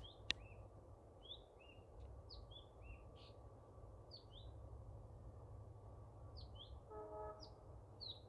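Faint birdsong: short high chirps, many in quick falling pairs, a couple of times a second over a steady low background rumble. Two sharp clicks near the start and a brief pitched tone about seven seconds in.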